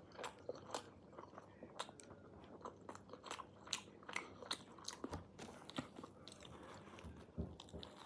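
Close-miked eating of a kebab: irregular crunchy bites and chewing, with many small wet mouth clicks.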